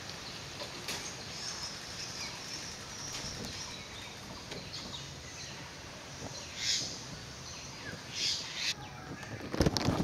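Bird calls over steady woodland background noise, with a short loud burst of wingbeats near the end as a jungle myna lands at its nest hole.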